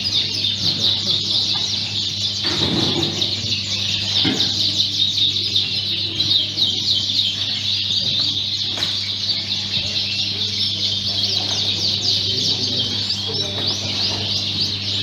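Many Fife canaries singing at once: a dense, continuous chorus of rapid high-pitched trills and chirps.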